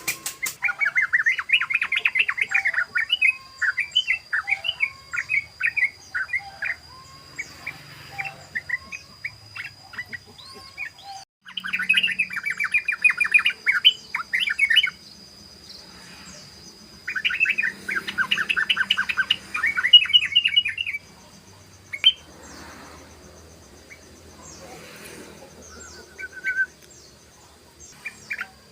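Yellow-vented bulbul singing its rapid chattering "ropel" song in bursts of a few seconds each, three main bursts with quieter pauses and scattered single notes between them.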